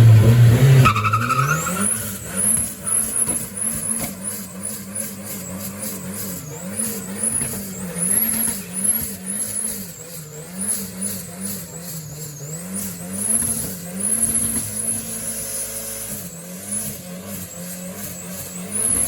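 Car engine held at high revs during a burnout, the revs rising and falling over and over, with tyre squeal and a high whine that follows the revs. A louder, deeper engine note fades out about a second in.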